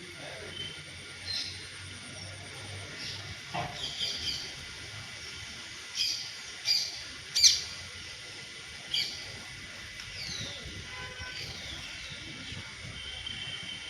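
Birds calling: a string of short, sharp chirps, the loudest three coming close together about six to seven and a half seconds in, followed by a few falling whistled notes.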